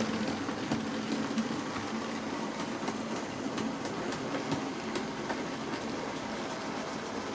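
OO gauge model train running on the layout's track: a steady electric motor whir with scattered light ticks from the wheels on the rails.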